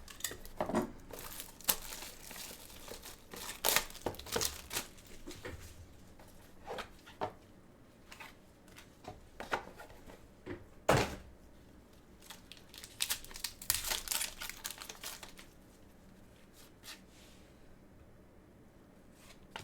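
Packaging of a sealed trading-card box crinkling and tearing as it is opened, with the cards handled: irregular sharp crackles and rustles that thin out after about fifteen seconds.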